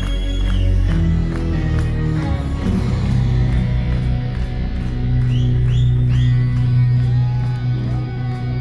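Live band music over a PA: held bass and guitar notes with a few short gliding high tones, no singing.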